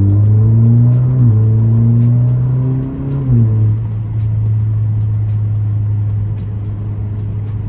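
2017 Alfa Romeo Giulia with a muffler-delete exhaust accelerating away through the gears: the engine note climbs and drops at each upshift, about a second in and again about three seconds in, then settles into a steady, slowly easing drone as the car cruises.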